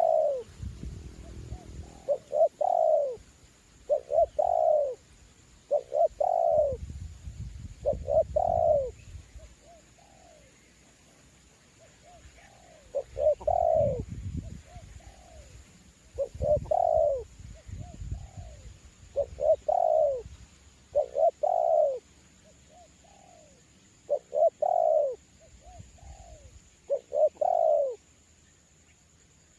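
Spotted dove cooing over and over in short phrases of falling coos, the calls of a decoy dove. Gusts of wind rumble on the microphone now and then, and a faint steady high whine runs underneath.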